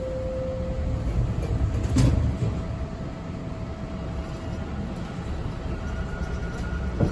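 TTC T1 Bombardier subway car running between stations: a steady low rumble and rattle with a faint steady motor whine, and one sharp knock about two seconds in.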